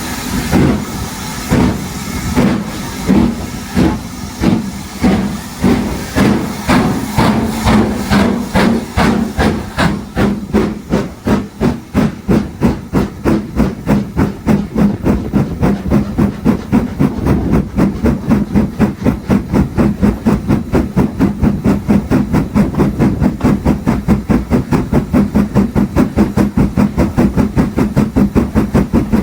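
LMS Stanier Class 8F two-cylinder steam locomotive's exhaust chuffing as it accelerates, the beats speeding up steadily from about one a second to several a second, with steam hiss between them.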